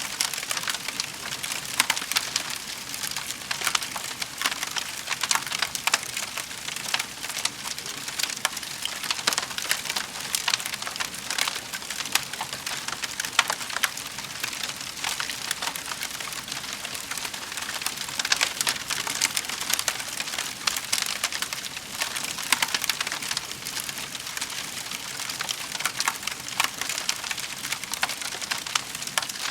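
Wood fire burning in a fireplace: a steady hiss with constant crackling and small pops.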